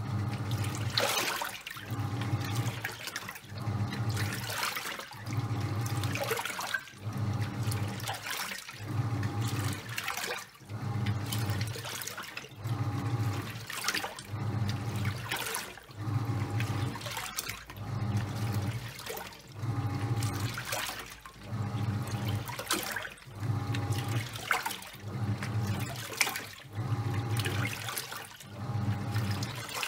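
Top-loading washing machine agitating a load of towels: the pulsator motor hums in short pulses about every second and a half, turning the drum one way then the other, with water and wet towels sloshing between the pulses.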